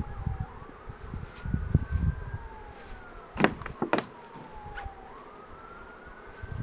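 An emergency vehicle siren wails, its pitch rising and falling slowly over several seconds. Low rumbling and a couple of sharp clicks come about halfway through.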